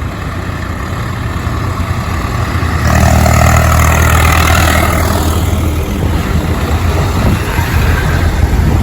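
Heavy diesel vehicle engine running on the highway. About three seconds in, one passes close, growing louder, then falling in pitch and easing off after a couple of seconds.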